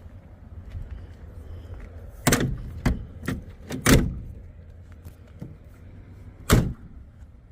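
A car door being worked: a run of clunks and knocks a couple of seconds in, then one loud slam near the end.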